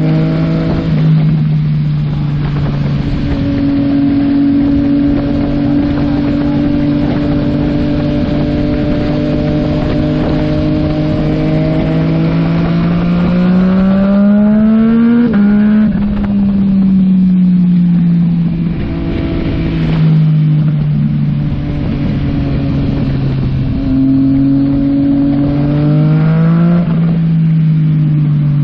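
Yamaha MT-09 SP's three-cylinder engine through a Yoshimura AT2 full exhaust, heard while riding with wind noise. The engine note climbs slowly about halfway through, then drops away, and rises briefly again near the end.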